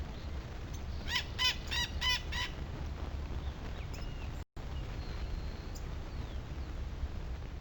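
A bird gives a quick run of about five short pitched calls, over a steady low rumble; a fainter high whistle follows later.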